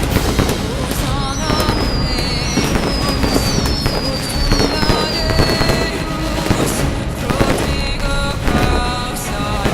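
Fireworks going off and crackling in quick succession, with several high whistles gliding slowly down in pitch through the first half.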